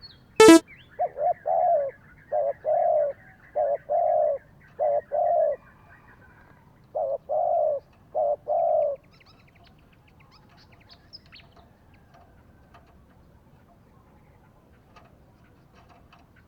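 Spotted dove cooing: repeated low coo phrases in short groups for about nine seconds, then stopping. A single sharp click sounds about half a second in, the loudest thing here.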